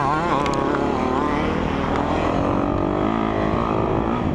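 Four-stroke single-cylinder engine of a Honda CRF450R motocross bike under riding load. Its note rises and falls with the throttle early on, then settles lower and steadier through a corner, over the rumble of riding.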